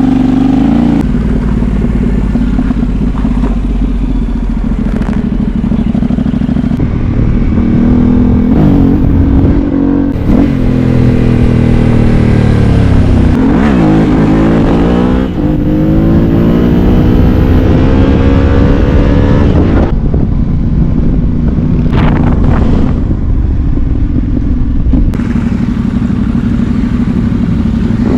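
Yamaha Ténéré 700's parallel-twin engine under way, its pitch repeatedly rising and falling with the throttle, dipping sharply about halfway through and climbing again, over a steady rushing noise.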